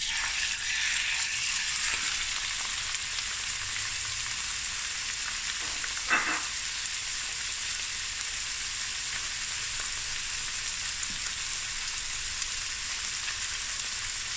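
Raw chicken breast cubes sizzling in hot oil in a stainless steel pan: the sizzle starts suddenly as they are tipped in, then goes on as a steady frying hiss, with one brief louder sound about six seconds in.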